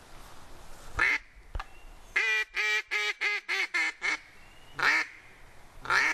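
Duck quacking: a single quack about a second in, then a quick run of about eight quacks, then two more single quacks.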